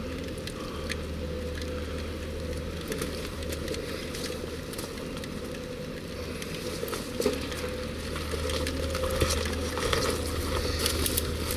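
Low steady rumble of an idling diesel truck engine, with scattered small clicks and rattles over it.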